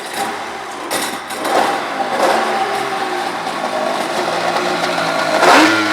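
1995 Polaris SLT 750 jet ski's two-stroke engine running, revved up briefly a few times, the highest rev near the end.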